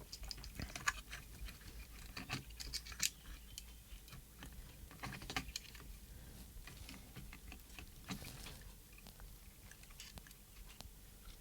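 Scattered small clicks, taps and light scraping of hands working on the plastic parts of a handheld radio transmitter while plugging its small wire connectors back together.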